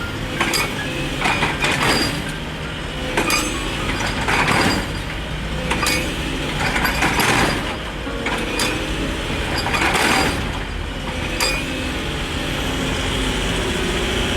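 Diesel engine running steadily under irregular sharp metal knocks and clinks, about one a second, from hand work on the hydraulic breaker.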